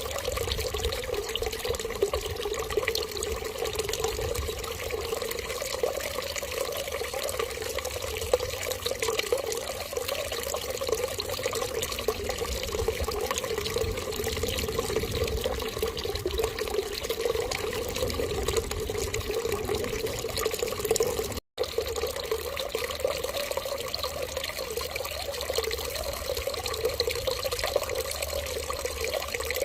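Steady running water, a continuous even stream like a running tap, with a very brief total dropout about two-thirds of the way through.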